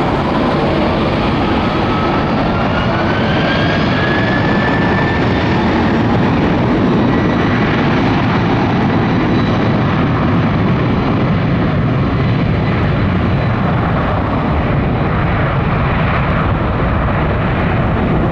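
Airbus A350-1000 jet engines running loud and steady, with a whine that rises in pitch over the first five seconds or so.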